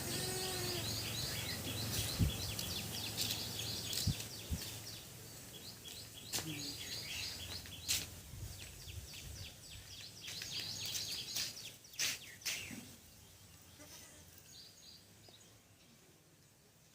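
Many small birds chirping together in quick repeated notes, with a short pitched bleat-like call right at the start and a few sharp knocks; the chirping thins out and fades after about thirteen seconds.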